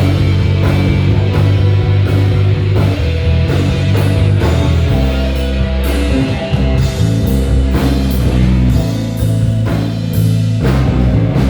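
Live band playing an instrumental passage: electric bass carrying a moving bass line under a drum kit keeping a steady beat, with keys and guitar above.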